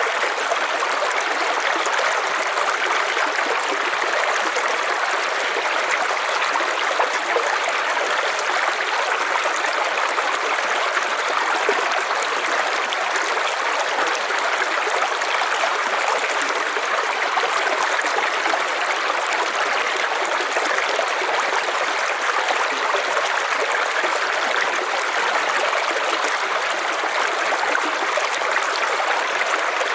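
River water flowing steadily, an even rushing with no breaks or single events.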